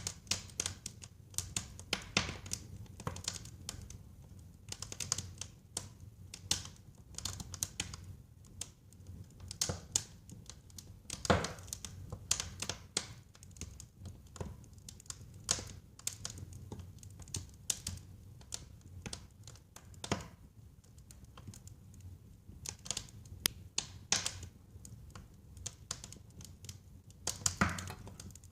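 Wood fire burning in a fireplace, crackling with irregular sharp pops over a low rumble; a louder pop about eleven seconds in and a cluster of pops near the end.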